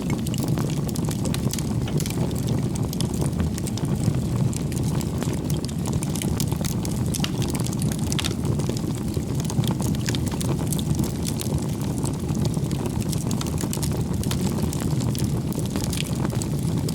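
Wood campfire burning: a steady low rumble of flames with frequent sharp crackles and pops from the burning firewood.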